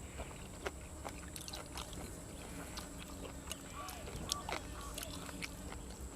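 Close-up chewing and crunching of grilled cuttlefish and raw vegetables, with many short wet clicks and crunches. Short animal calls are heard in the background, along with a steady high-pitched whine.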